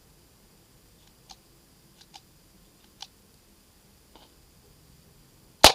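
USFA Zip 22 .22 pistol being worked while firing Armscor rounds: a few faint scattered clicks, then one loud sharp bang near the end.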